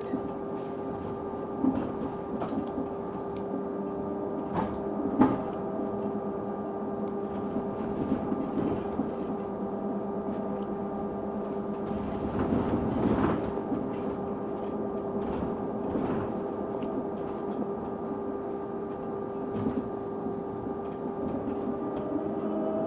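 A bus running with a weird steady tone that holds one constant pitch over its running noise, with a few short knocks and rattles, and a louder rumble about halfway through.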